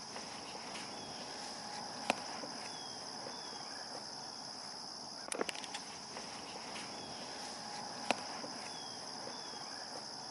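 Steady chorus of insects, crickets or similar, a constant high shrill, with three sharp clicks or snaps a few seconds apart.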